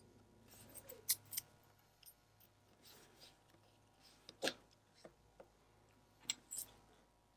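Tweezers and small metal watch parts faintly clicking and scraping during reassembly of a Seiko 6309 movement's calendar works, with a few sharp ticks: two about a second in, one near the middle and two more a little after six seconds.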